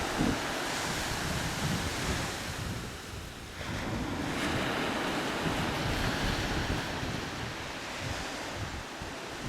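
Surf washing up a sandy beach, with wind buffeting the microphone. The wash eases briefly about three seconds in, then the next wave surges in.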